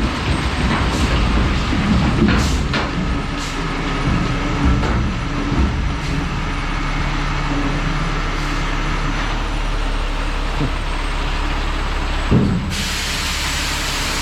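A truck engine runs steadily under load with scattered knocks and clanks. Near the end there is a thump, then a loud steady hiss sets in suddenly.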